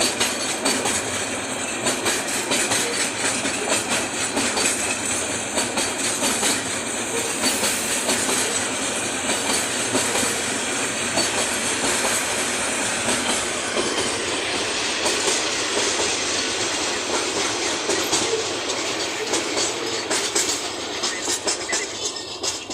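Train running on rails, a steady loud rumble with the rapid clickety-clack of wheels over the rail joints.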